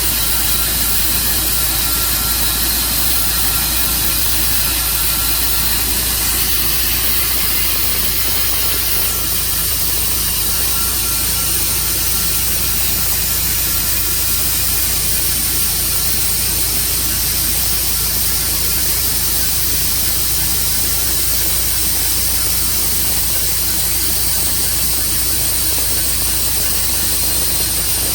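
Tru Cut sawmill running steadily, a continuous mechanical noise without a break.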